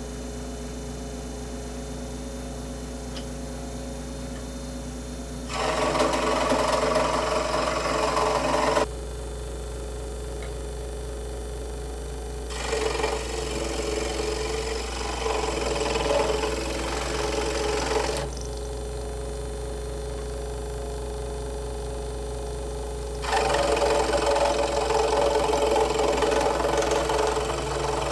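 Central Machinery (Harbor Freight) variable-speed scroll saw running, its blade stroking up and down with a steady mechanical hum. Three times, for a few seconds each, it gets louder and noisier as the blade cuts through wood. The saw has a little vibration, which the owner puts down to how it is mounted.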